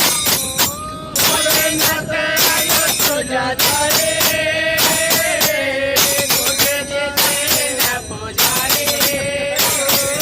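A voice singing long held notes over fast, steady hand percussion with jingling.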